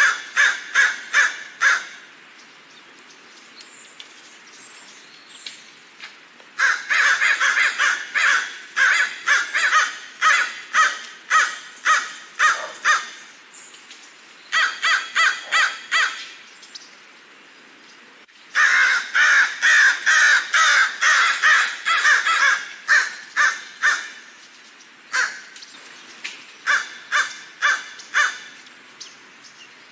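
Crows cawing: runs of short, harsh caws at about three a second, coming in several bouts with pauses of a few seconds between them.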